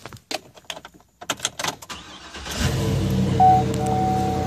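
Knocks and clatter for about two seconds, then a vehicle engine starts and runs steadily, with a steady electronic warning tone from the vehicle coming in about a second later.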